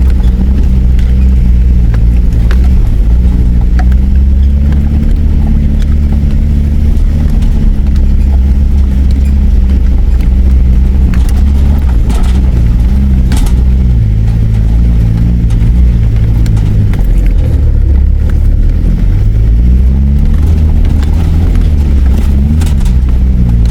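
Four-wheel drive's engine heard from inside the cab while driving up a dirt track, its note slowly rising and falling with the throttle, with scattered sharp clicks and knocks from the rough track.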